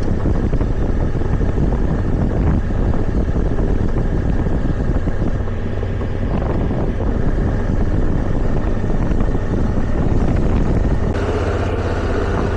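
Motorcycle engine running steadily under way, mixed with wind rush on the microphone. About eleven seconds in the sound suddenly turns brighter and fuller.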